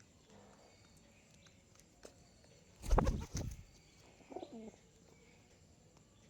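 Pigeon giving a short low coo about four and a half seconds in, after a loud, brief burst of noise about three seconds in.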